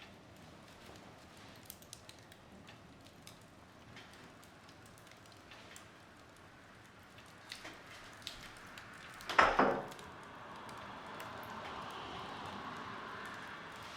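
Wood fire burning in a fireplace, crackling with scattered small pops. About nine seconds in comes a loud burst of cracking, followed by a few seconds of hissing.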